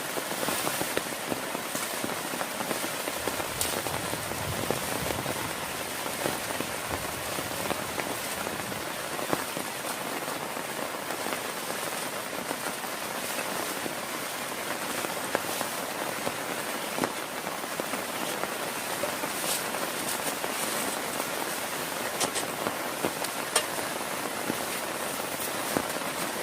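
Heavy rain falling steadily, with scattered sharper drop impacts standing out over the even hiss.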